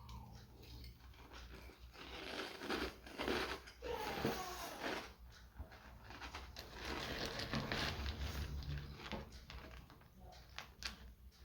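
A person chewing a mouthful of Cap'n Crunch's Crunch Berries cereal in milk, in two spells of crunching with a short pause between.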